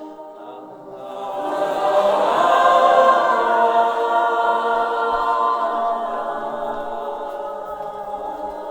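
Choir singing without accompaniment: many voices holding sustained chords, swelling in loudness about a second in and slowly easing off.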